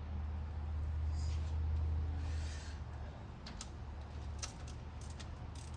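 A few irregular sharp clicks of hand tools being worked on the engine, over a steady low hum.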